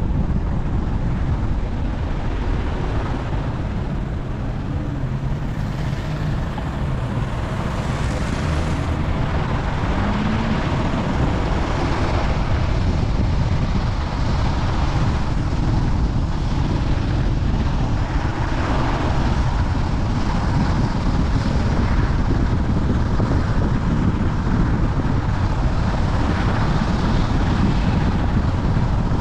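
A car on the move: steady road and engine rumble, with wind buffeting the microphone.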